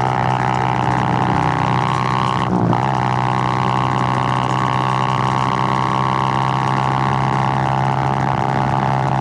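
Suzuki GN125's single-cylinder four-stroke engine running steadily under way, with a short break in its note about two and a half seconds in before it settles back to an even pitch.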